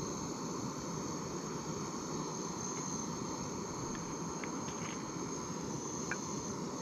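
Insects, likely crickets, trilling steadily in one continuous high tone over a steady low rushing noise, with a few faint short chirps about two thirds of the way through.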